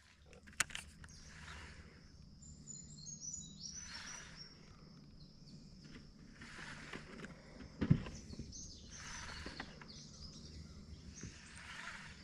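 Outdoor ambience with small birds chirping in short high notes over a faint steady low hum. There is a sharp click near the start and a single knock about eight seconds in.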